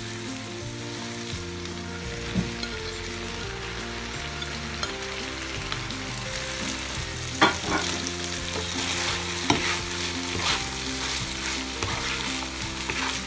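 Chopped bacon and sliced hotdogs sizzling in oil in a pot, with a few sharp knocks of the spoon and of mushrooms being tipped in from a plate and stirred. The loudest knock comes about halfway through.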